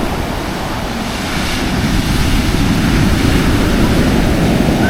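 Surf of large waves breaking and washing up the beach, with wind buffeting the microphone; the surf swells louder about two seconds in.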